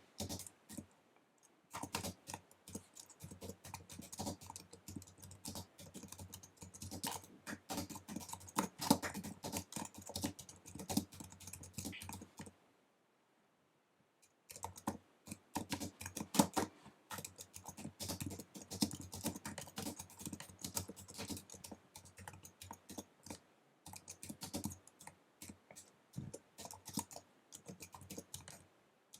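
Fast typing on an Apple wireless keyboard: a dense run of key clicks, a pause of about two seconds in the middle, then typing again, more scattered near the end.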